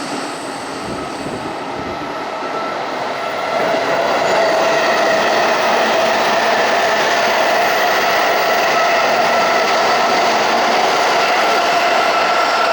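Sobu Line electric commuter train running on the track: a continuous rumble and rush of wheels on rail that grows louder about three and a half seconds in, with a steady high whine held over it.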